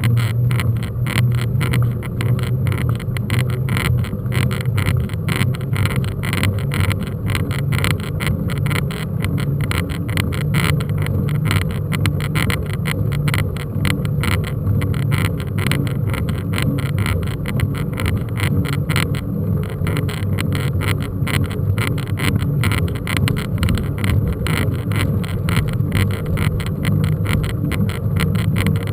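Mountain bike riding over rough ground: a steady rumble with a fast, continuous rattling clatter.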